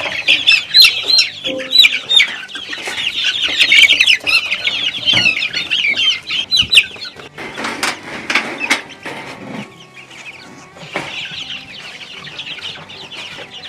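A crowd of three-week-old Cornish cross and Buff Orpington chicks peeping loudly and continuously in many overlapping high calls. The calls thin out for a few seconds past the middle behind a stretch of rustling, then pick up again near the end.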